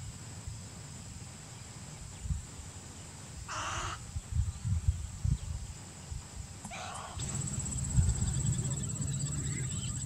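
Two short, harsh bird calls about three seconds apart, over a low wind rumble on the microphone. About seven seconds in, a steady, high, pulsing insect buzz grows louder.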